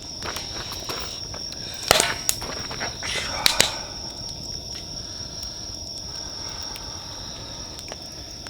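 Insects trilling steadily in one high, even pitch, with a few sharp knocks or clicks about two seconds in and again about three and a half seconds in.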